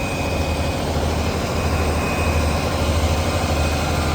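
Steady low rumble of a heavy diesel engine idling, typical of fire apparatus standing at the scene, over a constant wash of street noise.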